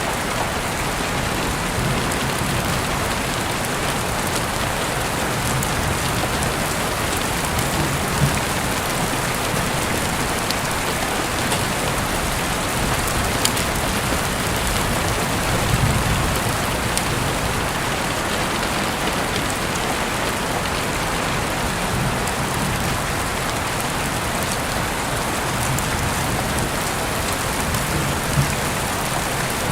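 Heavy rain falling steadily in an even, dense hiss, with a few louder drop hits here and there.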